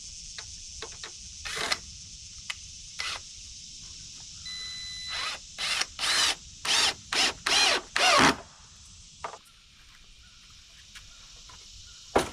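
Power drill driving screws into the coop frame in a run of about six short bursts in the middle, with scattered clicks and a steady high insect hiss behind.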